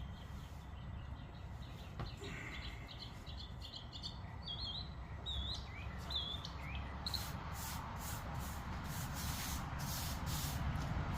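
Small birds chirping in short curling calls. From about seven seconds in, a regular run of short hissing strokes, a little over one a second, grows louder.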